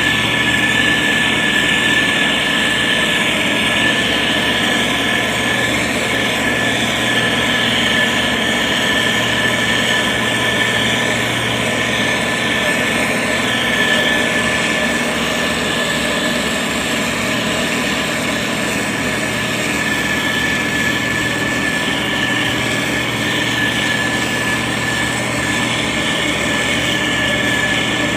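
Diesel engine of a SANY STG190C-8S motor grader running steadily under work, with a steady high-pitched whine over the engine noise.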